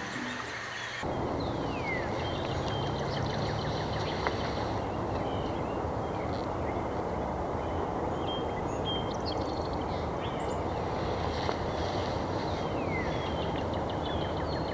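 Outdoor ambience: a steady rushing background noise with several small birds calling above it, short chirps and a couple of downward-sliding whistles. The noise starts about a second in.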